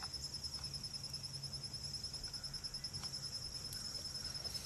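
Crickets chirping in a steady chorus, a high, rapidly pulsing trill that runs on without a break, over a faint low hum.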